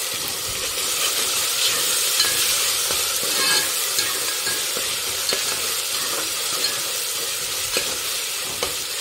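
Chopped tomatoes and onions sizzling in hot oil in a pressure cooker, stirred with a metal spoon that scrapes and clicks against the pot now and then over a steady frying hiss.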